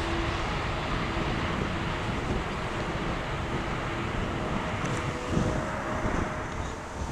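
Boeing 777-200ER jet engines rumbling at a distance after takeoff, fading slowly, with wind buffeting the microphone.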